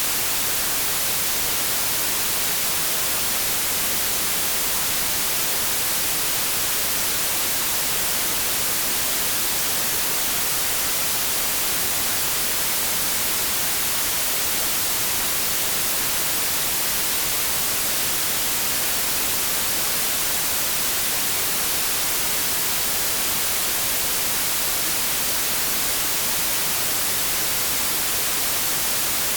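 Continuous synthetic white noise: a steady, even hiss, brightest in the treble, that never changes.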